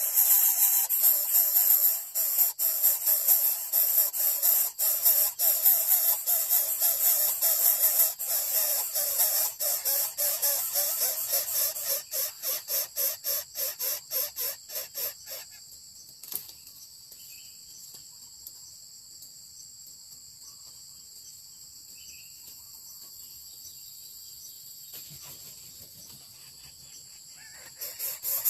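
Greater coucal chick giving harsh, raspy hissing calls in quick repeated pulses, which stop about halfway through. A fainter steady high-pitched drone, like insects, carries on after them.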